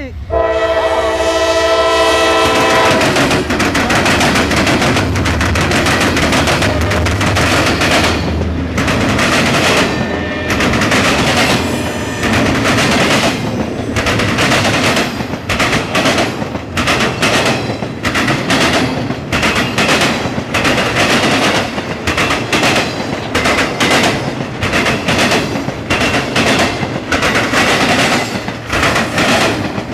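Norfolk Southern intermodal freight train passing: the locomotive's horn sounds for about three seconds at the start, then the locomotives rumble by and the cars follow with a rapid, continuous clickety-clack of wheels over the rail joints.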